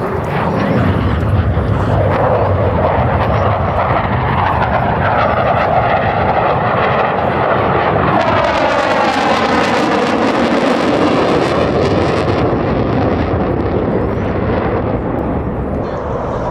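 Blue Angels F/A-18 Super Hornet jets flying past, a loud continuous jet roar. The sound sweeps and phases with a shifting hiss as they pass over, about eight to twelve seconds in, and eases slightly near the end.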